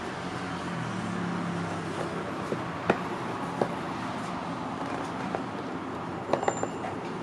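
Steady background rumble with a brief low hum early, and a few sharp clicks: one about three seconds in, another soon after, and a quick cluster near the end.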